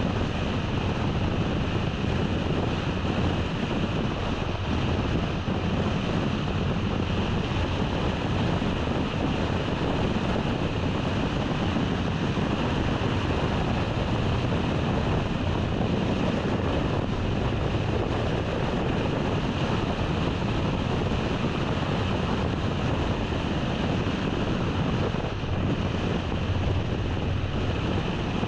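Steady noise of a car being driven: tyres on the road and wind rushing past, even and unbroken.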